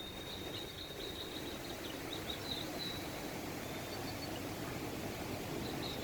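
Steady rush of a mountain stream, with a run of high, thin chirps in the first few seconds and a few more near the end.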